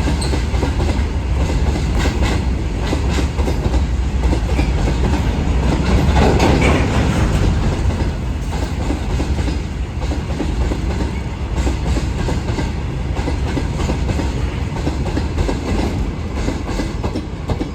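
Goods train wagons rolling past, their wheels clattering over the rail joints in a steady rumble. Somewhat louder about six to seven seconds in, then easing a little.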